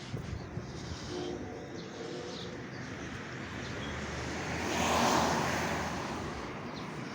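A vehicle passing on the street: its road noise builds, peaks about five seconds in and fades away. Faint bird chirps over steady traffic hum.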